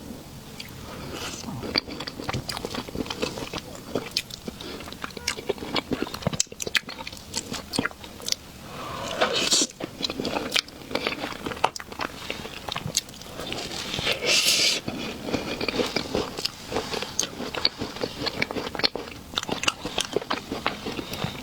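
A person chewing and eating soft dessert in big bites close to the microphone, with many short wet mouth clicks and a few louder smacking stretches.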